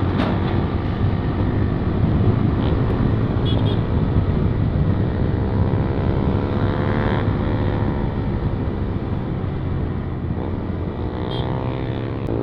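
Single-cylinder engine of a Yamaha MT-15 BS6 running steadily on the move through a modified exhaust with its dB killer removed, giving a loud exhaust note. The engine note drops a little about seven seconds in, then steadies.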